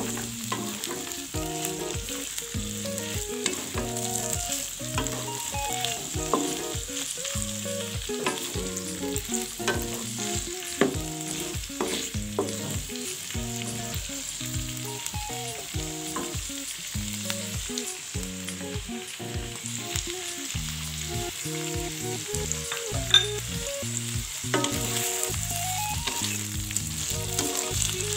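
Chicken pieces with sliced shallots and chilies sizzling as they are stir-fried in a pan, with frequent scrapes and clicks of the spatula against the pan and one sharper knock near the end.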